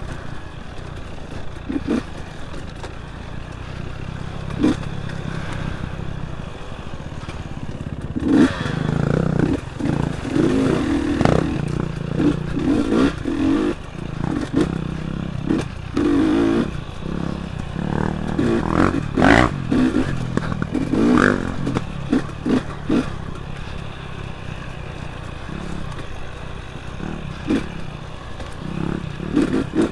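Dirt bike engine running on a rough single-track trail, with many knocks and rattles from the bike over the ground, busiest from about 8 to 23 seconds in.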